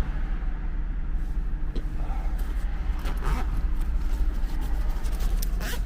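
A car engine idling with a steady low rumble, heard from inside the pulled-over car. Two brief rustling handling noises come about three seconds in and near the end.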